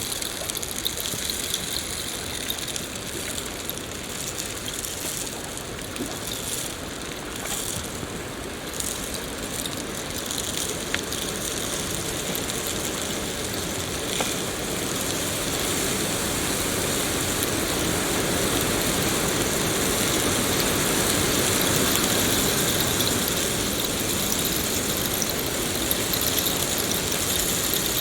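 Steady rain falling: an even hiss with scattered small drop ticks, swelling slightly in the second half.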